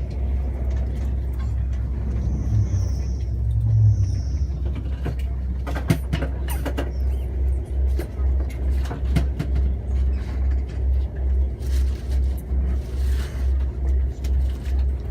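Low rumble of a moving train. About halfway through it settles into an even pulsing, about two beats a second, with a few scattered clicks.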